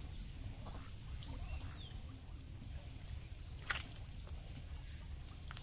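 Faint pond-side ambience with a steady low rumble. A few soft, short calls come from domestic ducks, and there is one sharp click in the middle.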